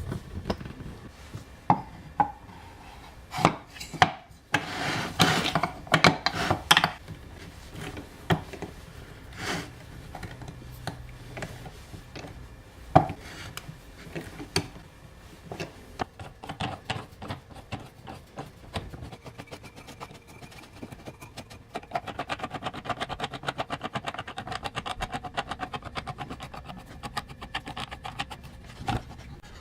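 Wooden workpieces and hardware being handled during assembly: scattered knocks and rubbing of wood on wood, then a long, fast run of rapid ticks over the last several seconds.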